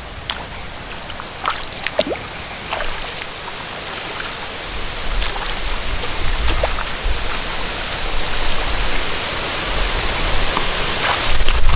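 Steady rush of flowing water, with scattered small splashes and knocks in the first few seconds. The rush grows louder about halfway through, with a low rumble under it.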